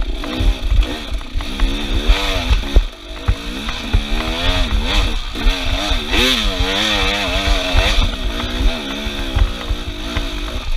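Small off-road vehicle engine revving up and down repeatedly while riding, over a heavy low rumble with frequent knocks.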